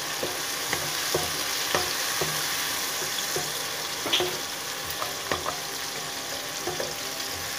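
Chopped onions, tomatoes and ginger-garlic paste sizzling steadily in hot oil in a pan, with scattered light knocks and scrapes of a wooden spatula as the mixture is stirred.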